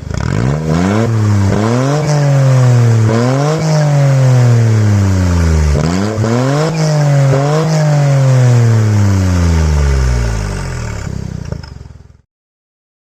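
Smart Roadster's turbocharged three-cylinder engine running through a de-catted, straight-through exhaust, loud. It is revved in a series of quick throttle blips that each rise sharply and fall back, then the revs sink slowly toward idle. The sound cuts off suddenly about twelve seconds in.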